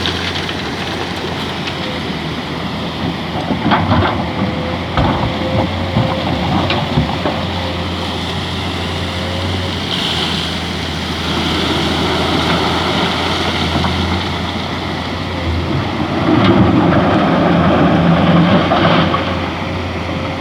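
A mining excavator's diesel engine running steadily with the noise of the machine working, a few sharp clanks about four to seven seconds in, and a louder, rougher stretch near the end.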